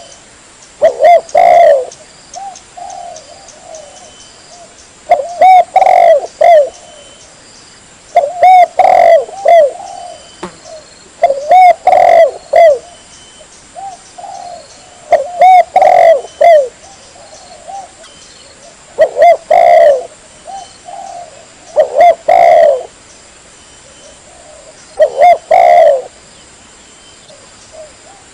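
Spotted dove (tekukur) cooing: a repeated phrase of several low coos, about eight phrases with three to four seconds of quiet between them.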